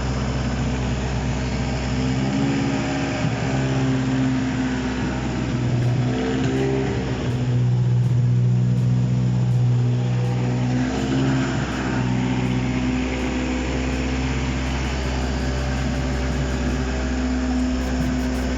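Toyota 2AZ 2.4-litre inline-four engine running on a test stand during its first start, its pitch rising and falling as the revs change.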